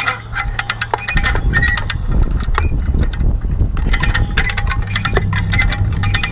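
Runs of quick, sharp metallic clicks and clinks from tools being worked, over a steady low hum.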